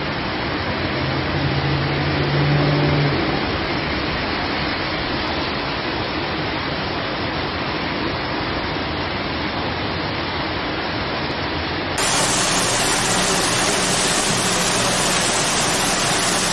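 Heavy rain pouring and floodwater running over a street, a steady hiss, with a vehicle engine humming in the first few seconds. About twelve seconds in it cuts to a louder, fuller downpour of rain falling through trees.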